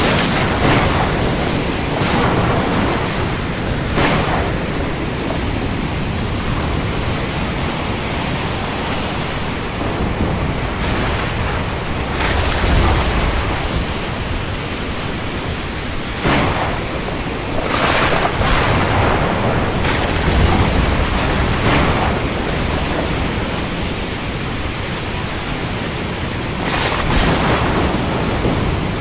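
Heavy rain pouring in a steady, dense hiss, swelling briefly every few seconds, with low rumbles about thirteen and twenty seconds in.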